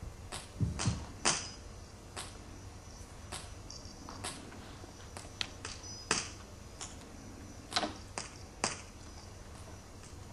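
Scattered sharp clicks and ticks, a dozen or more at uneven intervals, over a steady low hum.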